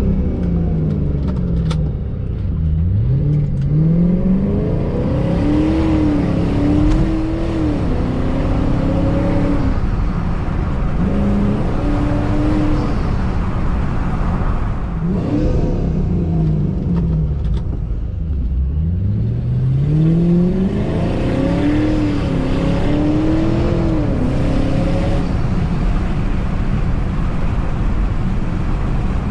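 The supercharged 4.6-litre V8 of a 2006 Ford Mustang GT accelerating hard twice. Each time the revs drop away, then climb steeply and step through the upshifts, with road and tyre noise underneath.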